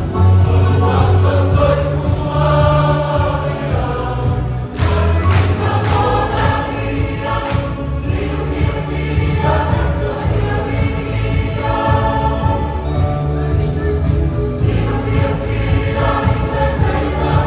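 A choir singing in harmony over sustained bass accompaniment with a steady beat.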